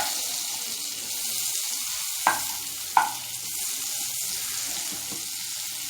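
Butter sizzling steadily as it melts in a hot pan, with two sharp taps a little past halfway through the first half, less than a second apart.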